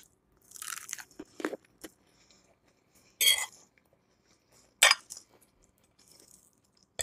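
Close-up chewing and crunching of a mouthful of lettuce salad, in uneven short bursts, the loudest about three and five seconds in.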